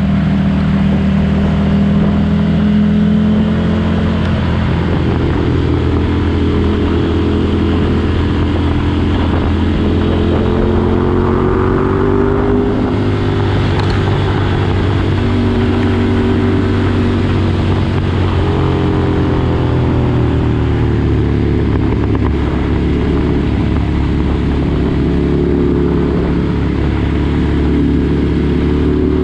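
2019 Ducati Desert Sled's air-cooled L-twin engine running through a Competition Werkes aftermarket exhaust. The engine speed rises and falls gently, so the exhaust note slowly climbs and drops in pitch.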